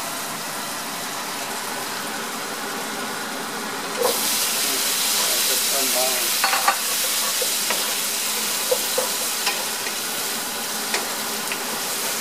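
Tomatoes and green bell pepper sizzling in oil in a nonstick wok, stirred with a wooden spatula that scrapes and taps against the pan now and then. The sizzle comes in about four seconds in, after a steadier, duller noise.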